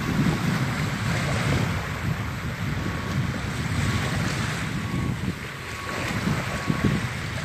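Small waves washing onto the beach in a steady hiss, with wind gusting over the microphone as a low rumble.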